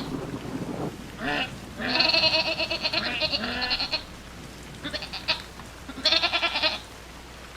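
An animal bleating in several quavering calls: a short bleat, then a long one of about two seconds, then two shorter ones near the end.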